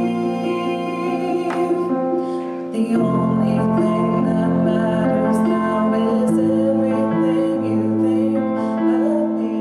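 Slow music: a woman singing with keyboard accompaniment, long held notes and chords changing every second or two.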